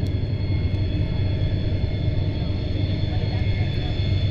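Steady engine drone: a strong low hum with faint, steady high-pitched whines above it, unchanging throughout.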